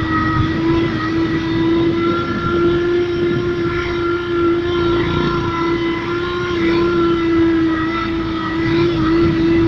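Motorcycle sound booster playing a steady, high-pitched simulated racing-engine note that sounds like a MotoGP bike, held at an even pitch.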